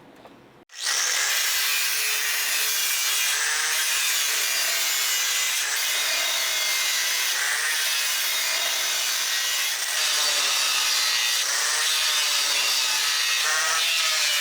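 Power grinder working under load: a steady abrasive hiss with a faint wavering motor tone underneath. It starts abruptly just under a second in.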